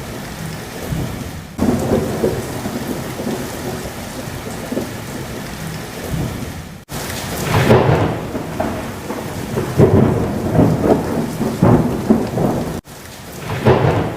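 Storm sound in a film soundtrack: heavy rain with thunder rumbling. The sound breaks off abruptly at scene cuts about 7 and 13 seconds in, and the loudest rumbles come in the second half.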